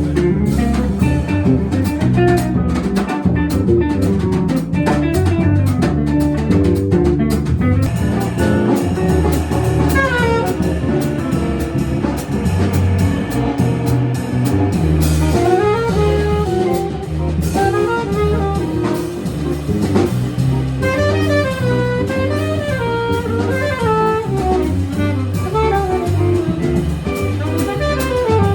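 Live jazz quartet playing: drum kit with busy cymbals over a low bass line, joined by a lead melody line about a third of the way in.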